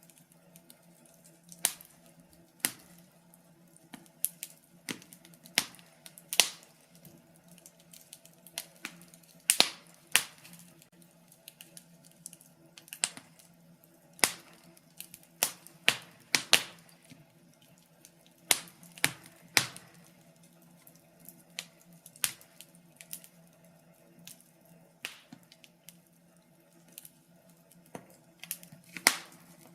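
Wood fire in a fireplace crackling, with sharp irregular pops and snaps of burning logs, some much louder than others, over a faint steady low hum.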